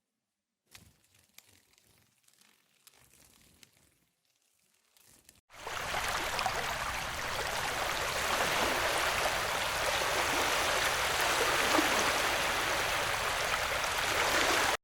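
Faint scattered clicks and rustles, then from about five and a half seconds in a steady rush of running water that cuts off suddenly at the end.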